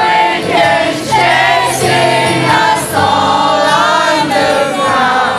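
Live rock concert sound: the band playing with sung vocals, long held notes that bend in pitch.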